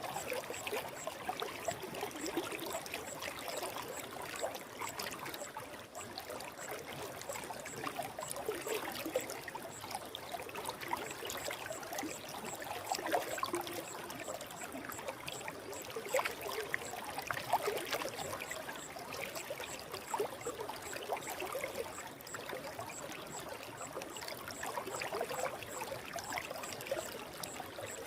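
Forest stream flowing: a steady rush of water with constant small trickling and babbling.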